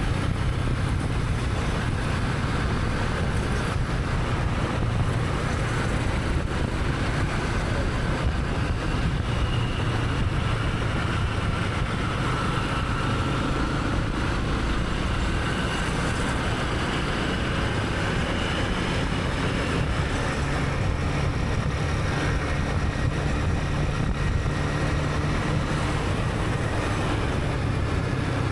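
Honda CB300R's single-cylinder engine running steadily under way, heard from the rider's camera with wind rush and the noise of surrounding traffic.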